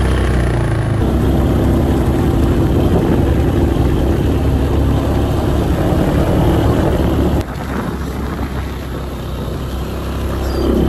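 ATV (quad) engine running steadily while towing a homemade trail drag through snow. The engine sound drops suddenly about seven seconds in and builds back up near the end.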